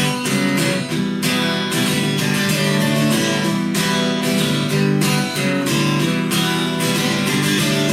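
Acoustic guitar strumming chords in a steady rhythm: an instrumental passage of a live country song, with no singing.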